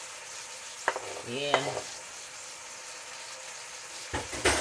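Chicken, onion and celery sizzling in hot olive and palm oil in a cast-iron pot, a steady frying hiss. There is a sharp click about a second in and a louder burst of sizzle and clatter near the end.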